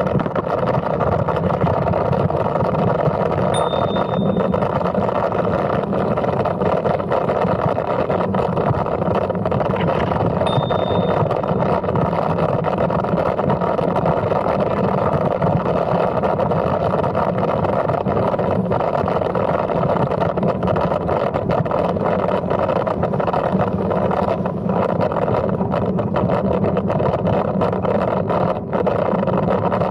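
Steady wind rush on the microphone with tyre rumble from a Brompton folding bicycle being ridden, two faint short high tones about four and eleven seconds in.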